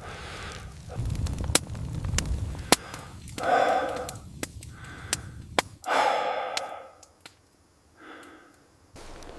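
A man breathing out heavily three times, each a long breathy sigh of about a second, with sharp clicks in between.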